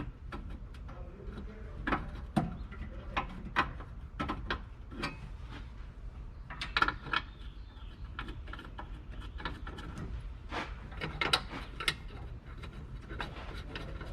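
Irregular clicks and clanks of hand tools and metal parts being handled on a car, some in quick clusters, over a steady low hum.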